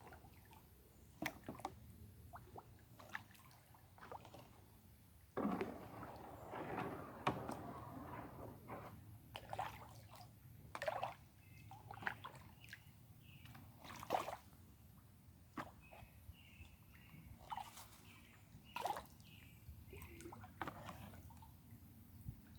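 Water sloshing and dripping around a kayak: scattered small splashes and drips from paddling, with a longer, louder splash about five seconds in that lasts a few seconds.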